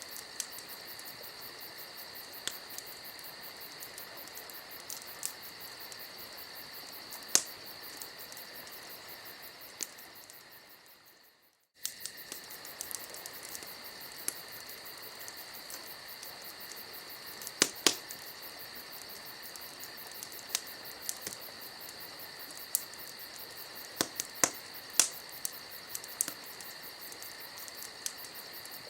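Campfire crackling with scattered sharp pops, over a steady high trill of crickets. The sound fades away about ten seconds in and comes back suddenly about two seconds later.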